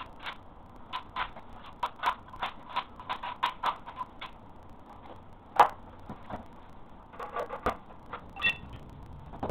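A series of light taps and clicks, quick and irregular at about three a second, from hand tools or hard material being worked. There is one sharper knock a little past halfway and a patch of small rattling clicks near the end.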